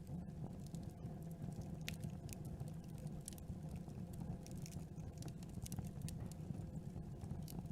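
Campfire burning: a steady low rumble of flames with scattered, irregular sharp crackles and pops from the burning wood.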